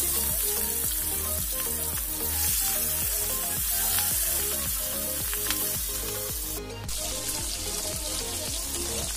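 Golda prawns deep-frying in hot oil in an aluminium kadai: a steady sizzle as the oil bubbles around them.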